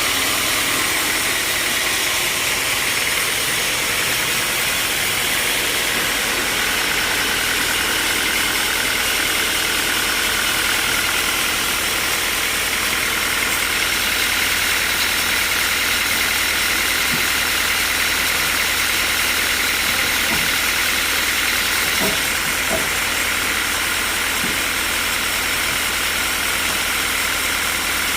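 Sawmill machinery running steadily: a low hum under a steady high tone, with a few faint knocks in the second half.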